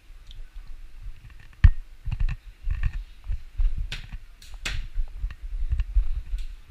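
Red fox chewing and crunching a carrot close to the microphone: irregular crunches and dull low thuds, with a few sharp cracks.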